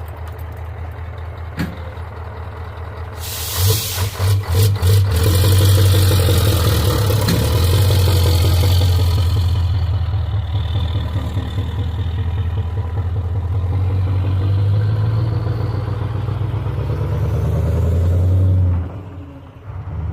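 Scania V8 diesel truck engine running steadily. About three and a half seconds in it is blipped several times in quick succession, then held louder for a few seconds before settling back. It dips briefly near the end.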